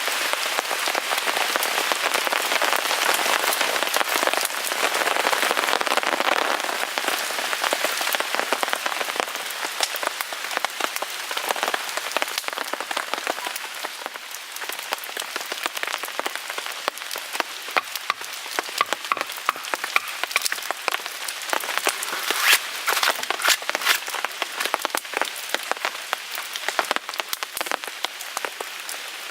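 Rain pattering steadily on a tarp overhead, mixed with the pops and crackles of a small wood fire. The rain hiss eases about halfway through, leaving sharp crackling pops more prominent near the end.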